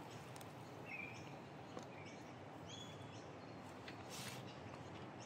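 Quiet outdoor ambience with a few short, high bird chirps scattered through it.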